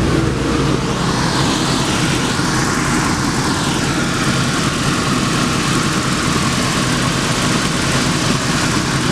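Belt-driven air handler blower fan switched on and running steadily, a loud even rush of air over a low rumble. Its worn, loose drive belt makes the unit vibrate.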